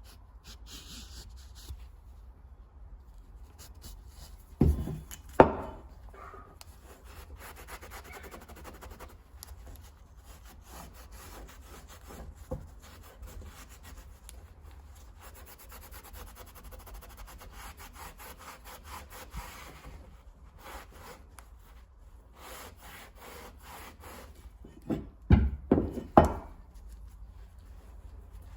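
Hand rubbing on the brass body of a gasket cutter in quick, even strokes. A few sharp knocks about five seconds in and a cluster of knocks near the end stand out above the rubbing.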